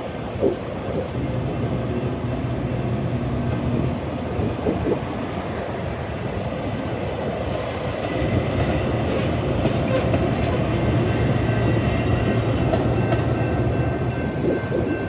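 Metra commuter train moving through the station: a steady low diesel locomotive drone with scattered clicks of wheels over the rail joints. Faint high steady tones join in during the second half.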